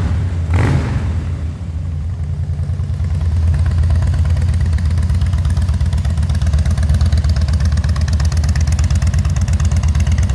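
Harley-Davidson Fat Boy's V-twin engine idling with a steady, even low beat, after a short blip of the throttle just at the start.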